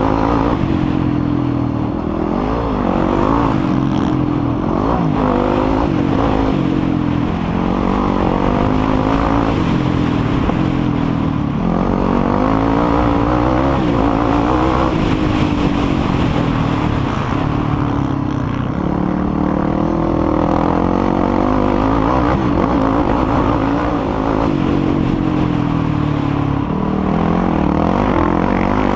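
Yamaha YFZ450R sport quad's single-cylinder four-stroke engine under racing throttle, its pitch rising and dropping again and again as it accelerates and backs off.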